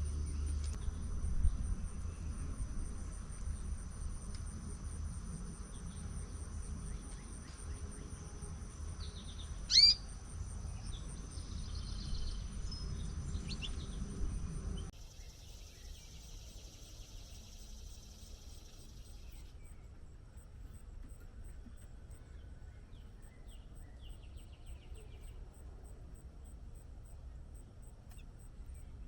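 Outdoor ambience with an insect's steady, high, rapidly pulsing trill over a low rumble. A single loud bird call sweeps up and down about ten seconds in. About halfway through, the sound changes abruptly to a quieter background with a fainter high insect pulsing and a few soft bird chirps.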